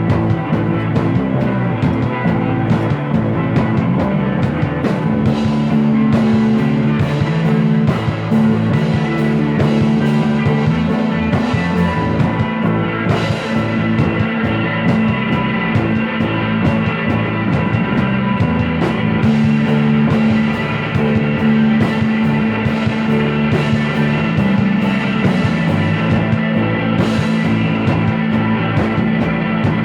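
Instrumental rock music with electric guitar and a steady drum beat.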